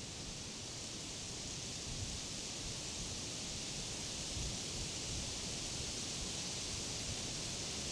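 Wind blowing through the leaves of summer trees, a steady rustling hiss that swells gradually, with low gusty rumbles underneath.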